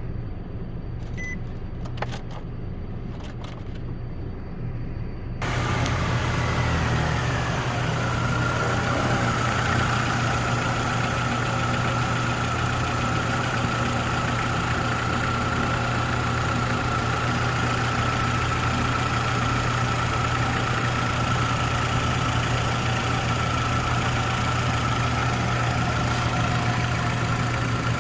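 2013 Nissan Rogue's 2.5-litre four-cylinder engine starting about five seconds in after a few clicks, then idling steadily. A high whine drops in pitch over the first couple of seconds and then holds steady as the idle settles.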